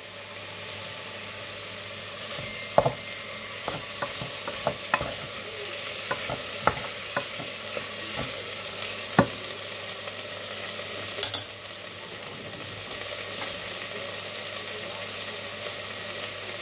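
Chicken pieces frying in a pan, a steady sizzle with sharp pops and clicks scattered through the first half. A brief louder noise about eleven seconds in.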